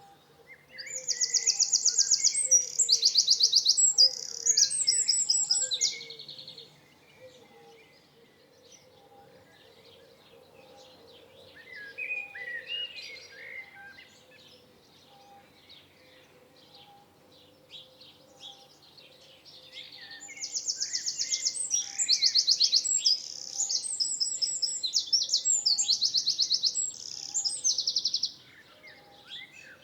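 A songbird singing two long bouts of fast, high trills, one near the start and one about two-thirds of the way in, each a string of different rapid phrases. Softer chirps come in between.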